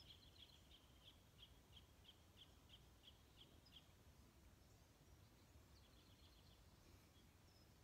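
Near silence outdoors, with a small bird faintly chirping: a regular series of short high chirps, about three a second, for the first four seconds, then a few fainter chirps near the end, over faint low background noise.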